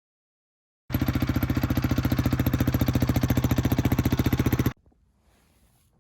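Motorcycle engine running with a fast, even pulsing beat, starting about a second in and cutting off abruptly near the end.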